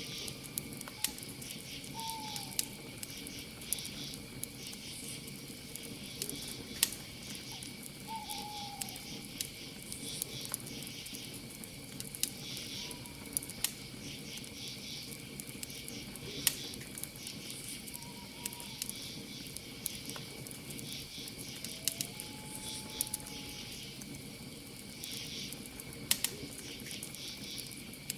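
Wood campfire crackling, with frequent sharp pops and snaps, over crickets chirping steadily in pulsing trills. A few faint short calls now and then.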